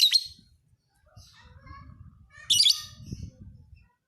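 Lovebird giving high-pitched squawking chatter: a loud short burst at the start and another about two and a half seconds in, with softer chirps between, over a faint low rumble.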